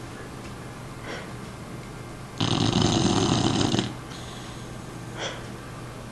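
An American Staffordshire terrier snoring in its sleep: one loud snore lasting about a second and a half near the middle, with fainter snuffling breaths about a second in and near the end.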